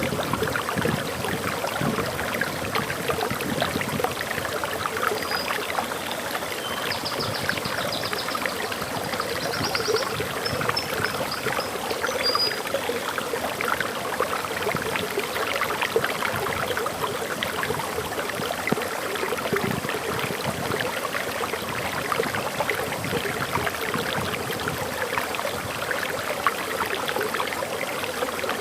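Waterfall flowing steadily. For several seconds partway through, a bird sings faint, high chirps and trills.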